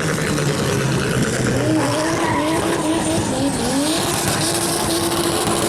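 Turbocharged drift car drifting: its engine note rises and falls repeatedly as the throttle is worked, over the steady noise of squealing tyres.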